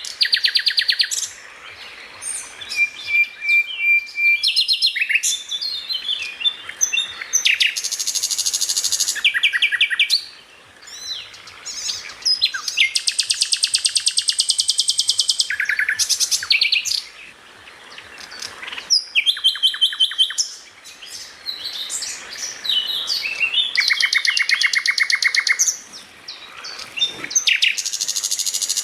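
Songbird singing in loud bursts of very fast trills and varied chattering phrases, with a held whistle about three seconds in and short pauses between bursts.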